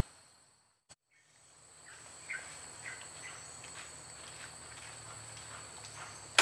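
Outdoor ambience: a steady high insect drone, with faint scattered bird chirps repeated through it. A single click comes just before the ambience fades in.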